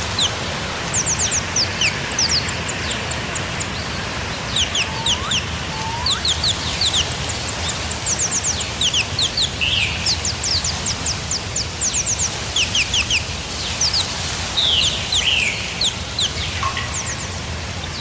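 Birds chirping: rapid runs of short, high chirps throughout, with a few lower, rising calls about five to six seconds in, over a steady low hum.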